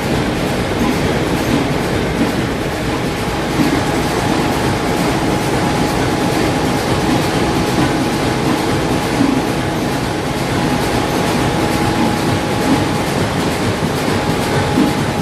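Vintage stationary engines running together in an engine house: a loud, steady mechanical clatter with a rhythmic beat. A thin steady whine joins about six seconds in.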